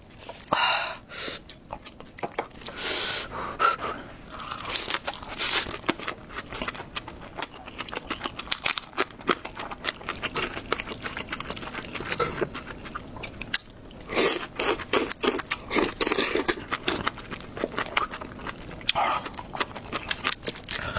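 Close-up chewing and crunching of food: a dense run of irregular crackles and wet clicks, louder for a few seconds about two-thirds of the way in.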